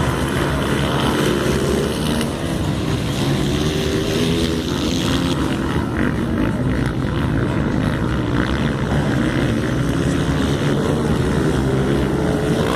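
Motocross bike engines running at race pace, their revs rising and falling as the bikes ride the track.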